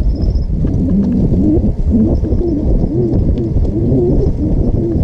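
Wind rumbling on the microphone while riding, with a low wavering tone that rises and falls continuously.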